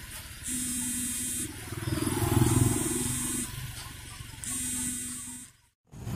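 Truck engine running and revving briefly about two seconds in, while a pitched tone sounds for about a second every two seconds, three times. The sound cuts out abruptly just before the end.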